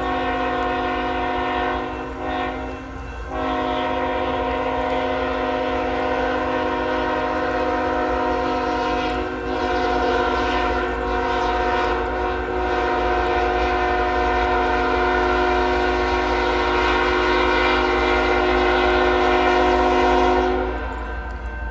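Freight locomotive air horn sounding several chime tones at once, with a short break about two to three seconds in, then held in one long blast that stops just before the end. A steady low rumble of the train runs underneath.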